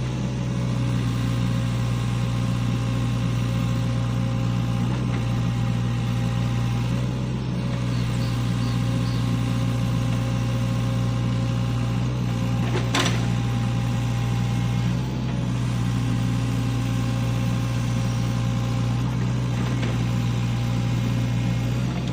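SANY hydraulic excavator's diesel engine running steadily with a constant low hum, with one sharp knock about halfway through.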